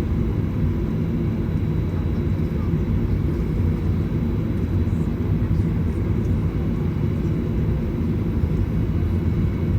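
Steady low rumble inside the cabin of a Boeing 737-900ER on the ground before takeoff, with faint steady whine tones above it.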